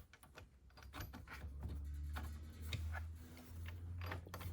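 Irregular light clicks and taps of small steel transmission parts being handled, over a low steady hum.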